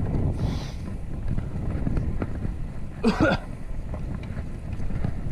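Wind buffeting the microphone of a rider on a moving bicycle, a steady low rumble. A short vocal sound from the rider comes about three seconds in.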